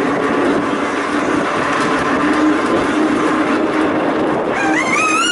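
Volk's Electric Railway car running along the track, a steady hum with wheel and rail noise. Near the end a siren starts up, rising in pitch.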